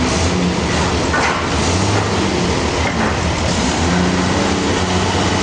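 Sawmill machinery running with a loud, steady mechanical noise and a low hum underneath.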